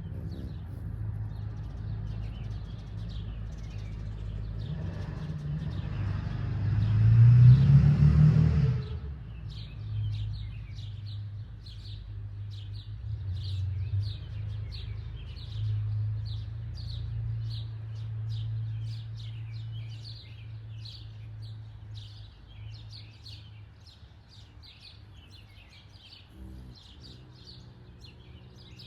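A passing vehicle swells up and fades, loudest about seven to eight seconds in, over a steady low hum. Small birds chirp rapidly and continuously.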